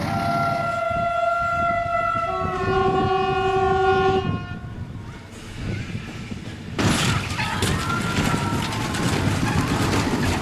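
Train horn sounding a held multi-tone chord that shifts pitch about two seconds in and stops after about four seconds. About seven seconds in, a sudden loud rushing, rattling noise begins as a train runs past.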